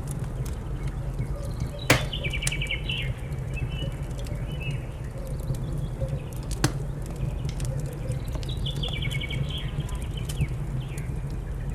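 Wood fire crackling, with sharp pops about two seconds in and near seven seconds over a steady low rumble. A songbird sings a short trilled phrase twice, about two seconds in and again near nine seconds.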